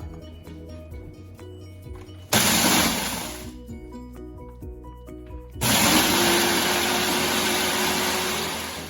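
Electric kitchen blender or mixer grinder switched on in two bursts, one of about a second and then one of about three seconds, typical of grinding biscuits to a powder.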